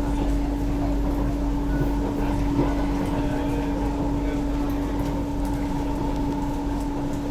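Interior of a Kawasaki C151A electric train running between stations: a steady mid-pitched hum over a constant rumble and low drone.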